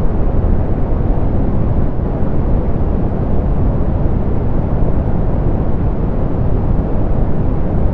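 Softened pink noise: a steady, even rushing noise, deep and full with the highs rolled off, with no changes or events.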